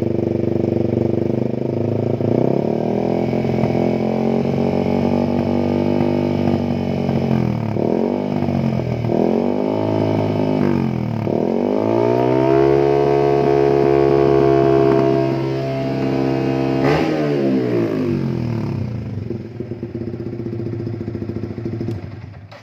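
Yamaha Vixion 150's single-cylinder four-stroke engine running through a loud aftermarket racing exhaust. It idles, is blipped and revved several times, held at high revs for a few seconds, and settles back to idle. There is a brief sharp crack about 17 seconds in.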